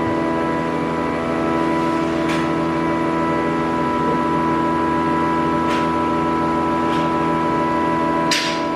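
A woodworking machine runs with a steady, unchanging drone. Four sharp knocks of wood or tools sound over it, the loudest near the end.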